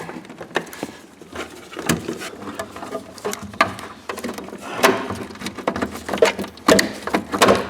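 Irregular clicks, taps and rustling of hands working a wiring loom and its rubber grommet through the car's firewall, with a few sharper knocks in the second half.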